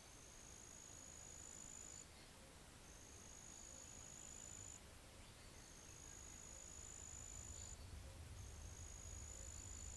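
An insect, cricket-like, trilling in a thin high steady tone. It comes in four even bouts of about two seconds each, with short pauses between, over a faint low rumble.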